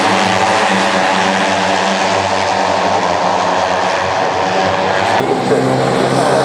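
Steady, loud drone of engines running continuously, changing abruptly about five seconds in.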